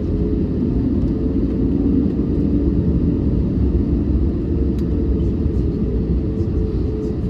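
Airbus A321neo jet engines running, heard inside the passenger cabin as a steady low rumble with a hum that shifts slightly in pitch.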